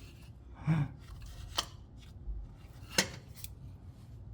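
A few sharp metallic clicks and knocks, three in all, the last the sharpest, as a starter motor on a 2005 Chevy Suburban is moved by hand. It is looser than it should be.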